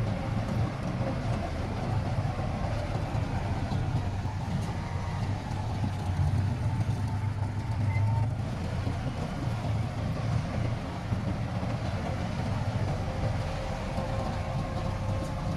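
Heavy construction machine's diesel engine running steadily, a low continuous engine sound with a faint whine above it.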